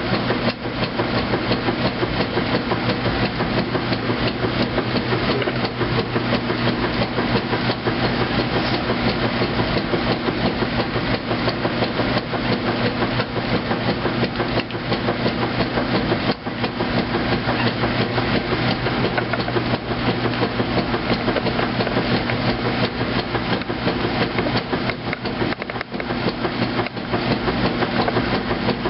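2008 Kenmore washing machine running its heavy duty cycle: a steady motor hum under a dense, continuous rattle.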